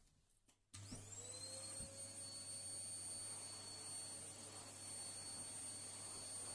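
An electric appliance motor switched on about a second in: its whine rises quickly as it spins up, then settles into a steady whirring hum with a high whine.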